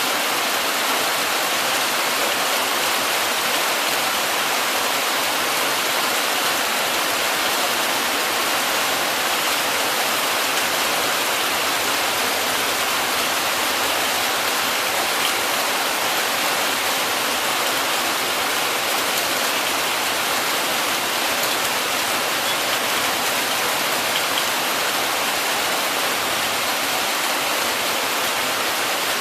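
Heavy rain falling steadily, an even hiss that holds at a constant level throughout, with no thunder.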